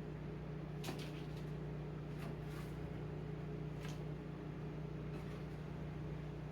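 Microwave oven running with a steady hum while it heats food, with a few light clicks or knocks over it.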